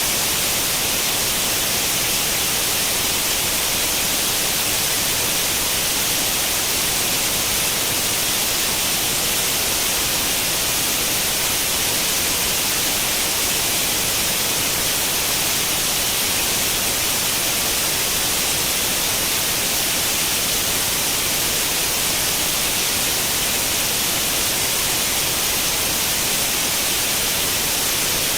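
Steady, unchanging white-noise hiss, brightest in the upper range: the static of an analogue tube television tuned to no channel.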